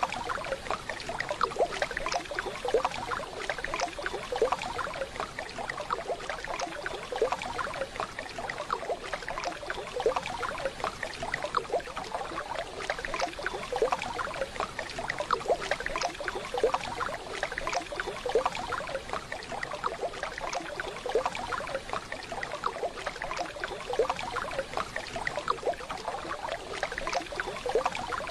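Steady rushing and splashing of a waterfall.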